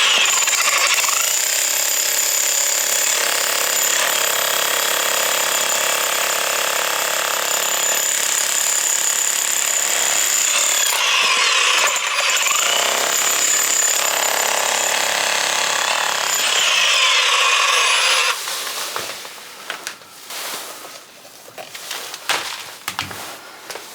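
Electric chisel hammer chipping away at a large stone, running continuously with a steady high whine, then stopping suddenly about eighteen seconds in. A few short knocks and scrapes of stone follow.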